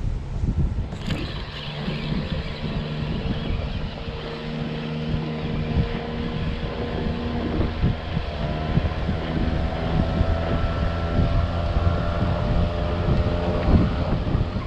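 A boat's outboard motor running steadily, its pitch rising a little about halfway through as it speeds up, with wind on the microphone.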